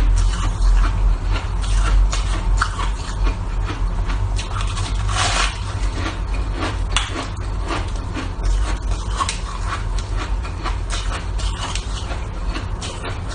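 Shaved ice being crunched and chewed close to the microphone: a run of irregular, crisp crunches over a steady low hum.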